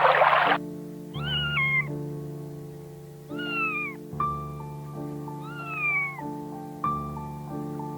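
A cat meowing three times, each meow about a second long and falling in pitch, over soft piano music. A loud rushing noise cuts off about half a second in.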